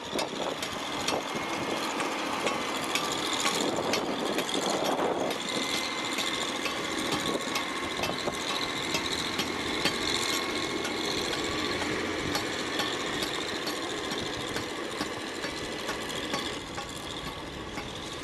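Construction-site machinery running steadily, with a faint whine and many short, sharp knocks and clicks scattered throughout.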